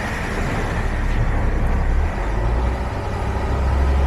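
Mercedes Sprinter's 3.0 L OM642 V6 diesel engine running steadily, its low note shifting slightly about halfway through. It runs again after a no-start caused by a spacer holding the crankshaft position sensor too far from the tone wheel.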